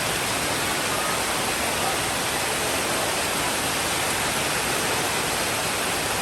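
Steady rainfall, an even hiss with no thunder rumble or distinct drops standing out.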